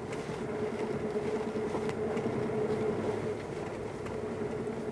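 Suzuki Jimny JB64's 660 cc turbocharged three-cylinder engine running steadily as the vehicle creeps along a grassy forest track, with an even hum and a constant mid-pitched whine, heard from inside the cabin.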